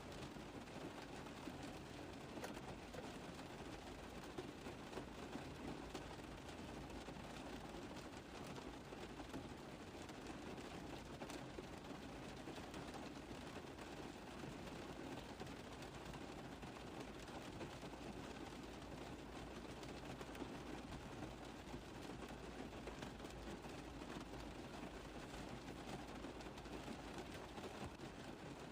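Steady rain falling on a car roof: a constant hiss with many small drop taps, unchanging throughout.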